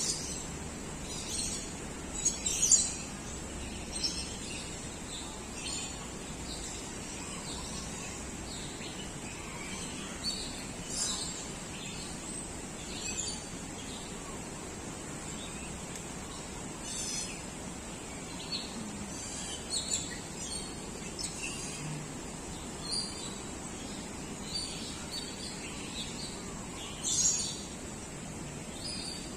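Several birds chirping and calling in short, scattered notes, with a few louder chirps about two and a half seconds in and near the end, over a steady high hiss.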